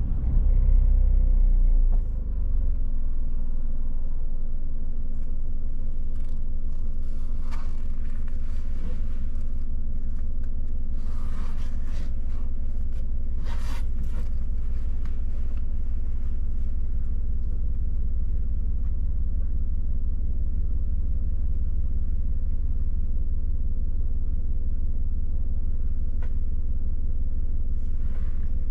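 Car driving: a steady low rumble of engine and road noise, easing slightly about two seconds in, with a few short hissing noises in the middle.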